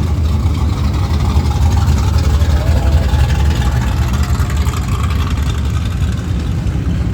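Vehicle engine running with a loud, steady low rumble.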